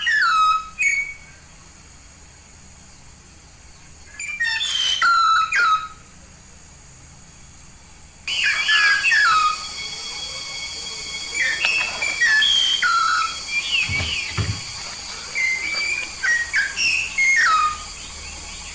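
Yellow-faced myna calling: loud whistled notes that slide down in pitch, in bursts of a second or two with pauses between. From about eight seconds in, the calls come more often over a steady high hiss.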